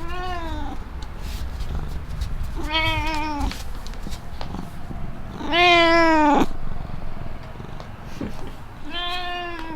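Black domestic cat meowing four times, a few seconds apart; the third meow is the longest and loudest.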